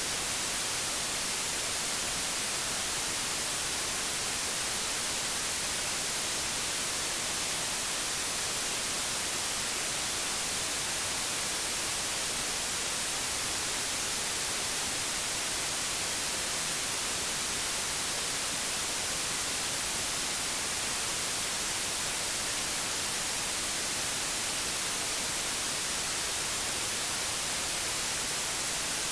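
Analogue television static: a steady, even hiss, weighted toward the high frequencies, with no breaks.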